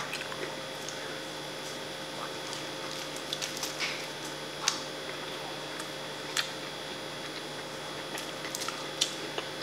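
Close-miked eating: scattered wet mouth clicks and smacks while chewing, with a few sharper smacks about four and a half, six and a half and nine seconds in, over a steady electrical hum.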